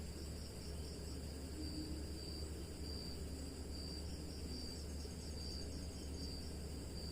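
A cricket chirping at night in the forest, repeating short high chirps every half second or so over a steady low rumble.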